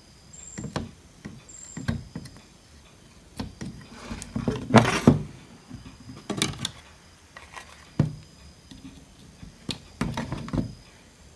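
Irregular clicks and knocks of hand tools and a circuit board being handled on a workbench during desoldering, with a louder clatter about five seconds in.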